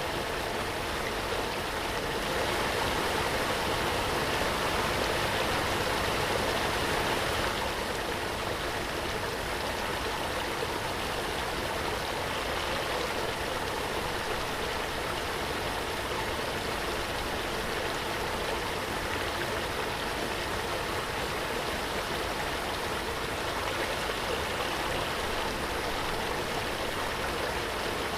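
Waterfall: water falling and rushing in a continuous even roar, slightly louder for a few seconds early on.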